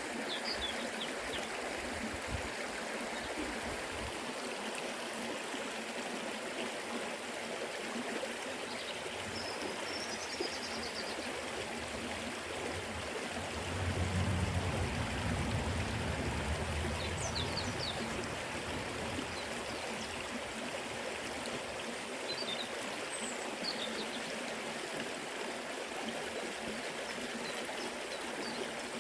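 Forest river flowing: a steady rushing of water, with a deeper swell for a few seconds about halfway through and a few faint high chirps.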